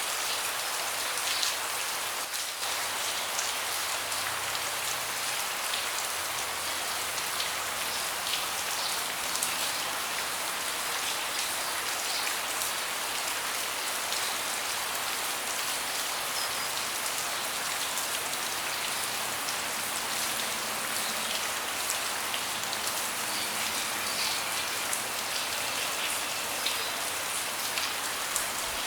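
Steady rain with a dense patter of individual drops ticking on hard surfaces close by.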